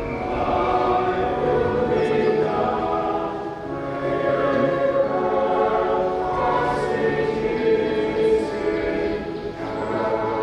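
Choir singing in sustained phrases, with several voice parts and brief dips in level about three and a half seconds in and again near the end.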